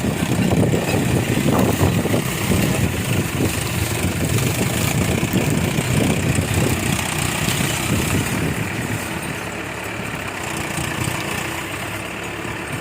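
Tractor diesel engine running, louder for the first two-thirds, then settling quieter and steadier near the end.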